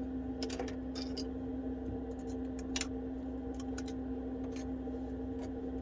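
Scattered light clicks and taps of small repair tools working on an iPhone 12's internals, over a steady background hum.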